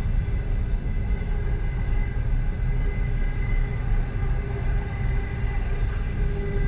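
Passenger train car running at speed, heard from inside the last car: a steady low rumble of wheels on rails with a faint steady whine over it.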